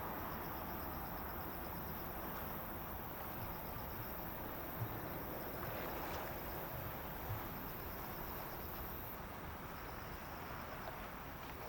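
Distant jet airliner noise, a steady rush that slowly fades, with insects chirping in a repeating pulsed pattern. Two faint knocks are heard in the middle.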